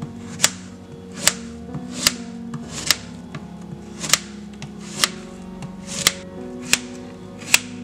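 Chef's knife slicing through a raw chilacayote (fig-leaf gourd) and hitting a plastic cutting board: a sharp tap about once a second, nine or ten cuts in all, over background music.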